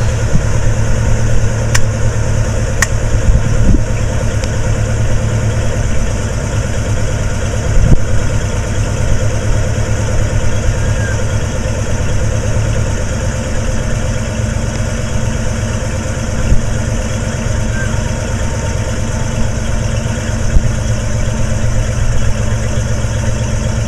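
1972 Ford Mustang's 351 Cleveland V8 idling steadily through its dual stainless exhaust.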